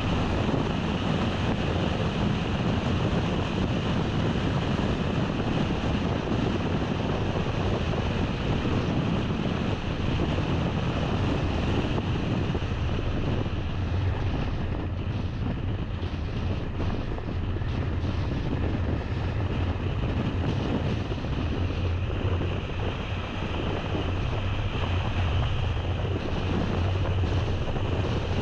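A car driving along a road: steady rumble of road and engine noise mixed with wind on the microphone.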